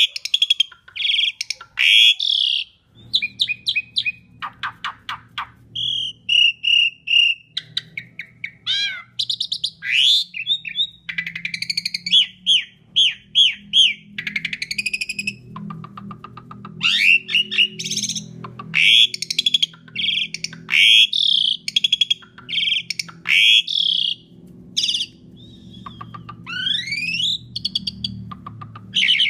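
Asian pied starling singing a long, varied song of loud whistles, chirps, sweeping notes and rapid trills, one phrase after another. A low steady hum sits underneath from about three seconds in.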